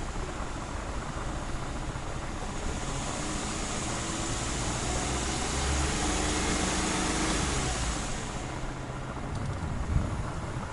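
Suzuki Every Wagon's small turbocharged three-cylinder engine idling just after starting. It gets a little louder for a few seconds in the middle, and there is a low knock near the end.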